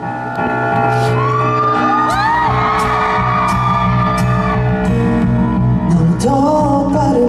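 Live pop ballad intro ringing through a large concert hall, with audience members screaming in high rising-and-falling cries about a second in; a new melodic line enters near the end.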